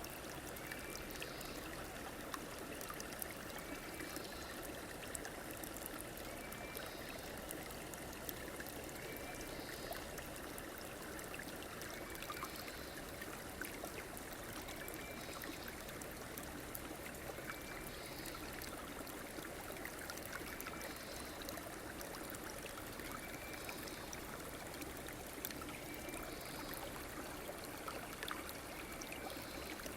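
River water flowing steadily. A short, high sound repeats about every two seconds over it.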